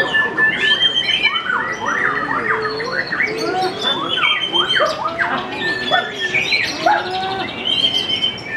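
White-rumped shama (murai batu) in full song: a loud, continuous run of varied whistles, with quick up-and-down sweeps mixed with short held notes.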